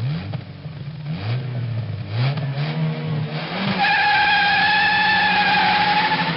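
Car engine accelerating hard through several gear changes, its pitch climbing and dropping back four times, then a sustained tyre squeal from about four seconds in, cut off abruptly near the end.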